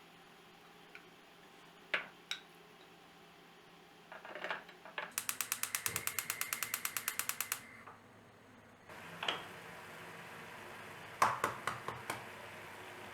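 A small mechanism ratcheting: a fast, even run of sharp clicks, about ten a second, for a couple of seconds midway, with scattered single clicks and knocks before and after. A faint steady hiss sets in after the ratcheting stops.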